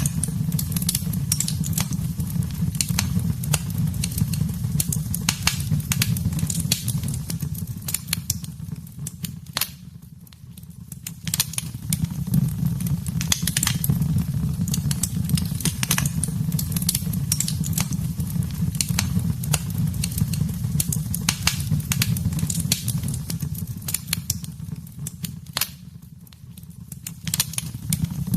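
Wood fire in a fireplace crackling, with many sharp pops over a steady low rumble. The sound dips briefly twice, about ten seconds in and near the end.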